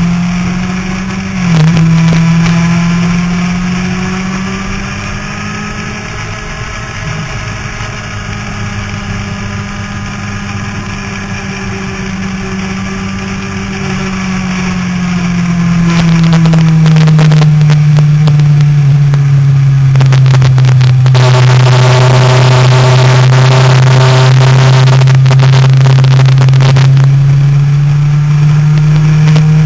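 Motorcycle engine running hard around a race track, heard from on board: its note climbs, holds and drops back as the rider works the throttle and gears. Heavy wind rush on the microphone rises over the engine in the second half.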